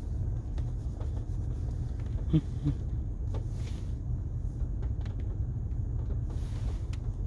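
Low, steady rumble of a 2006 Honda Pilot driving slowly over a rough gravel rail grade, heard from inside the cabin. A couple of short knocks about two and a half seconds in, with a few faint clicks.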